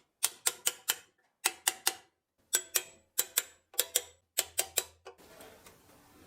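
Quick bursts of sharp clicks or taps, three or four at a time about five a second, with short pauses between bursts, stopping a little after five seconds in.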